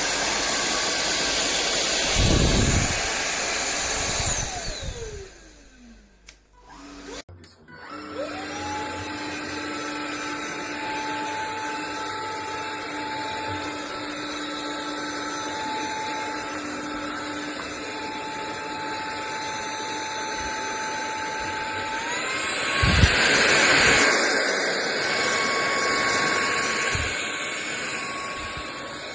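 Sulean X8 cordless stick vacuum's motor whining. About five seconds in it is switched off and winds down with a falling whine. It starts again about two seconds later, spins up to a steady whine, and a little after twenty seconds steps up to a higher pitch and gets louder.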